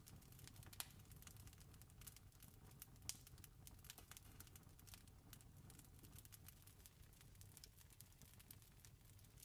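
Campfire crackling faintly: many small irregular pops and snaps, two sharper pops about a second in and about three seconds in, over a low steady rumble.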